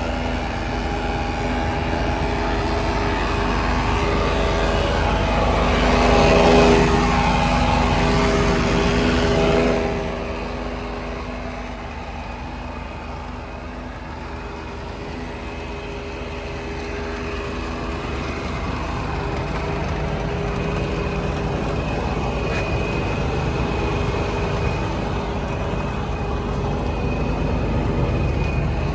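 Scania R 124 truck's 12-litre inline-six diesel engine running, growing louder to a peak about six seconds in. Its sound drops sharply at about ten seconds, then slowly builds again.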